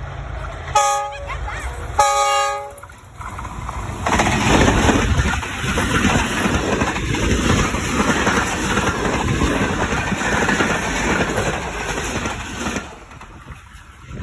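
Train horn sounding two blasts, the second longer, followed by the train passing close by as a loud, steady rush of noise for about nine seconds that drops away near the end.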